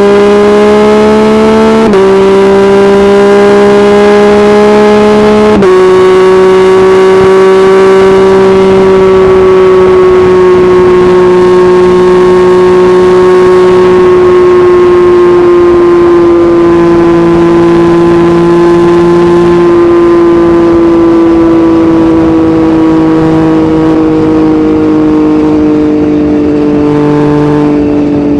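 Yamaha MT-09's inline-three engine through an Akrapovic exhaust, loud, pulling hard with two upshifts about 2 and 6 seconds in, each cutting the rising note down sharply. After that it holds a steady, slowly falling note as the bike cruises and eases off.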